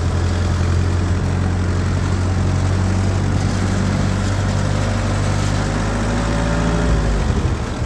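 1948 Ford 8N tractor's four-cylinder flathead engine running steadily while under way. Its note drops about seven seconds in as the tractor slows.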